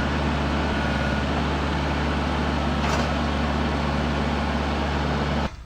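Wood-Mizer LT15 Wide portable sawmill's engine running steadily, cutting off suddenly near the end.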